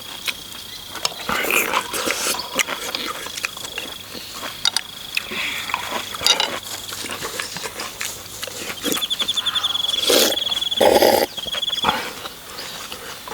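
An insect trilling on one steady high note, stuttering as it starts up again about nine seconds in, over mealtime sounds: utensils clinking on bowls and short slurps of soup, the loudest near the end.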